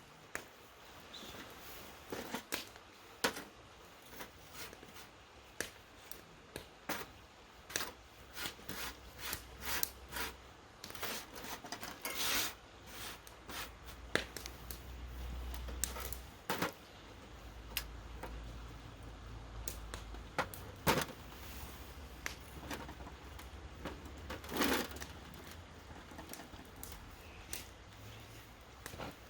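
Irregular light clicks and knocks, spaced from about half a second to a few seconds apart, with a low rumble through the middle stretch.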